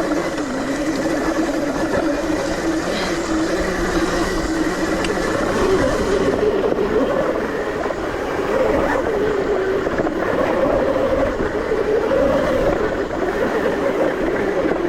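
ETM RTR electric dirt bike riding on a trail, its motor whine rising and falling in pitch with the throttle over a steady low rumble.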